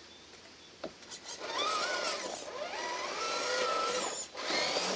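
Electric motor and gear drivetrain of a 1/8-scale Traction Hobby G-Wagon RC trail truck whining as it drives off, its pitch rising from about a second and a half in. It drops out briefly near the end and then picks up again.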